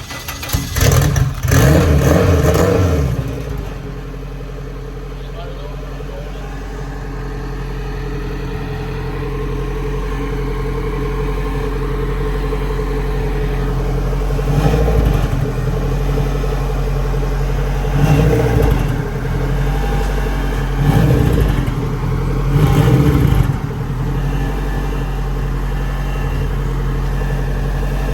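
A car engine starts up with a loud burst of revs, then settles to a steady idle. It is blipped briefly four times in the second half.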